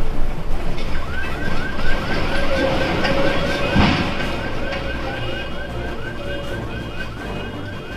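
Vehicle alarm chirping rapidly, about four to five rising-and-falling chirps a second, starting about a second in, over a steady low rumbling noise, with a single knock near the middle.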